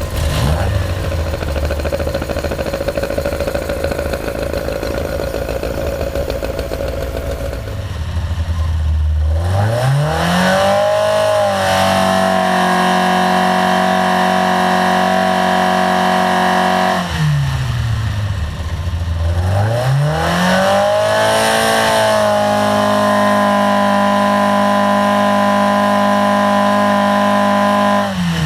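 SRD 2.24 all-steel Ford Pinto four-cylinder race engine with twin sidedraught carburettors running on an engine dynamometer. It runs at low speed for about eight seconds, then the revs climb and are held steady at high speed for about five seconds, drop back, climb again and are held steady for about six seconds, and drop near the end.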